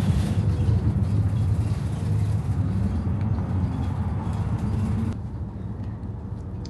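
Steady low rumble of a road vehicle running, with road noise; it becomes noticeably quieter about five seconds in.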